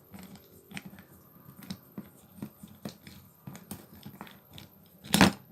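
Light, irregular clicking and scraping of a small nut being turned by hand off the armature shaft of an angle grinder, with one louder knock about five seconds in.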